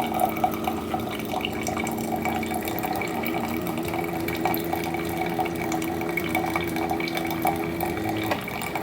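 Keurig single-serve coffee maker brewing a K-cup: its pump hums steadily while coffee streams into the mug, and the hum cuts off about eight seconds in as the brew finishes.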